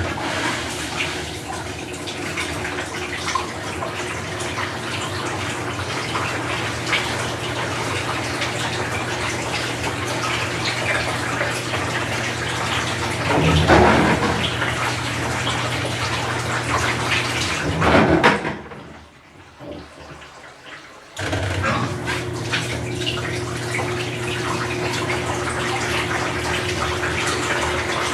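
Water running in a Whirlpool Cabrio washing machine over a steady low hum, starting abruptly. It swells twice, drops away for about two seconds near the two-thirds mark, then resumes.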